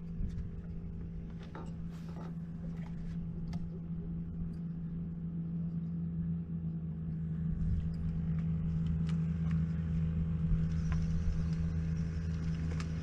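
Small boat's motor running steadily with a low hum, growing a little louder over the seconds, with a few light knocks scattered through.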